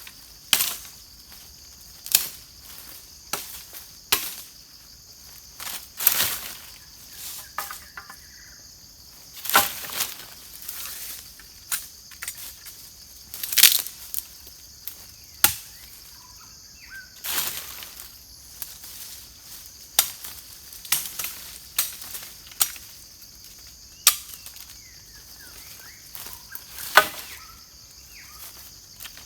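Irregular knocks and cracks of wood being chopped and snapped, one every second or two, some trailing a brief rustle of leaves, over a steady high drone of forest insects.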